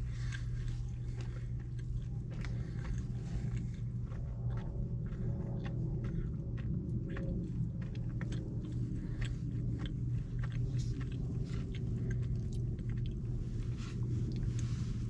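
A person chewing orange chicken and chow mein, with small clicks of a plastic fork against a plastic takeout tray. A steady low hum runs underneath.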